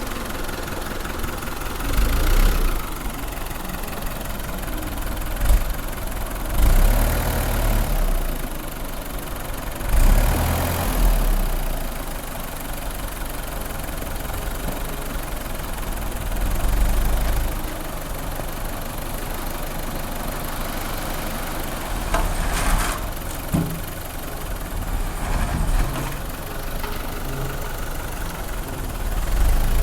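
A vehicle engine running steadily, with a louder low rumble swelling up every several seconds.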